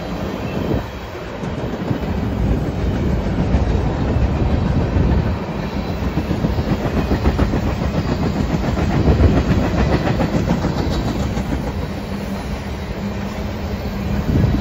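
Freight cars of a passing train, tank cars and covered grain hoppers, rolling by on steel wheels: a steady run of clickety-clack over rail joints above a continuous rumble. A steady low hum comes in near the end.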